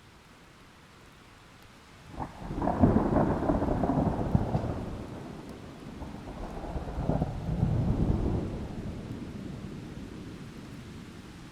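Thunder over steady light rain: a sharp crack about two seconds in, then a rolling rumble that fades, swells again in a second roll, and dies away.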